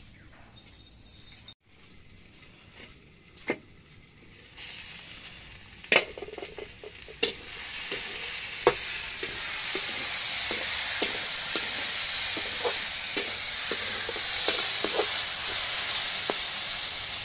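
Chopped wild mushrooms frying in oil in a metal kadhai while a metal spatula stirs them and clacks against the pan. The sizzle starts faintly about four seconds in and settles into a steady sizzle, with sharp spatula knocks every second or so.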